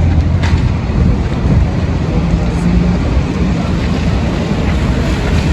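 Wind buffeting the microphone: a loud, steady low rumble, with one faint click about half a second in.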